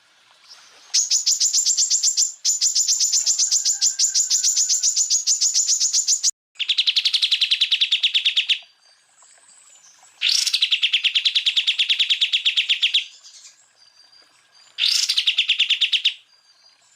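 Cucak ijo (greater green leafbird) singing loud 'tembakan' phrases: four bursts of very rapid repeated notes, the first high-pitched and lasting about five seconds, the next three lower and shorter, two of them opening with a quick upward sweep.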